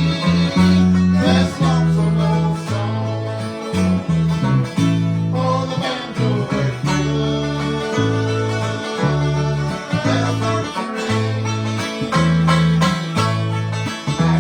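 Bluegrass band playing, with banjo and guitar picking over a steady alternating bass line.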